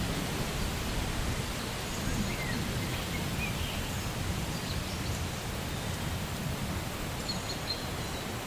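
Steady rain falling, an even hiss with a low rumble underneath and a few faint high chirps now and then.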